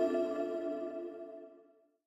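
Bell-like chime ringing out after being struck, with several steady tones fading away until it dies out about one and a half seconds in.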